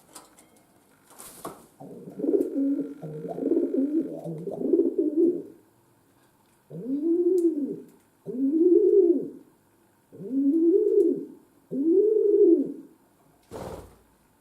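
Budgerigar calls played slowed down, so they sound low and coo-like: a few seconds of jumbled warbling, then four separate calls, each rising and falling in pitch, about a second long and evenly spaced. A short knock comes just after the start and another near the end.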